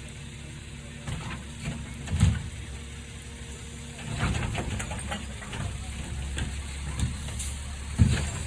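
Garbage truck engine running steadily, with a series of thumps and knocks over it. The loudest thump comes a little after two seconds, and another sharp one near the end; from about halfway the sound grows busier with clatter.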